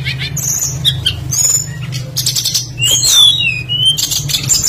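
Tledekan songbird singing a varied song of rapid chirps, trills and gliding whistles, phrase after phrase, over a steady low hum.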